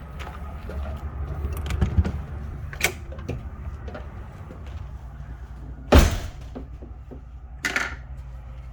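A few knocks and thumps of a door being handled, the loudest about six seconds in and another shortly before the end, over a low steady rumble.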